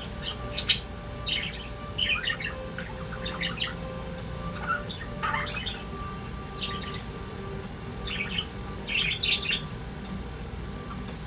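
Pet budgerigars chirping and chattering: scattered bursts of short, sharp chirps, clicks and squawks, loudest near the start and again about nine seconds in, over a faint steady hum.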